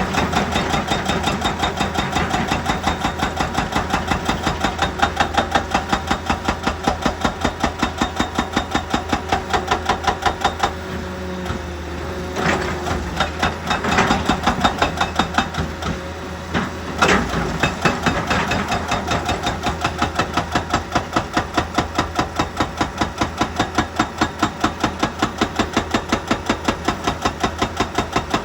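Heavy machinery running with a rapid, regular knocking, about four blows a second, over a steady engine hum. The knocking lapses briefly twice.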